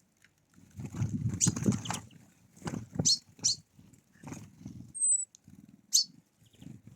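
Birds at a feeder: irregular low scuffling and knocks of birds landing and pecking, a few sharp clicks, and one brief thin high call about five seconds in.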